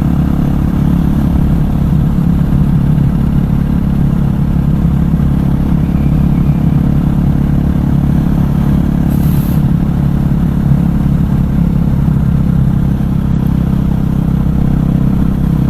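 KTM 500 EXC supermoto's single-cylinder four-stroke engine running at a steady cruising speed, pitch holding level, with wind noise over the microphone.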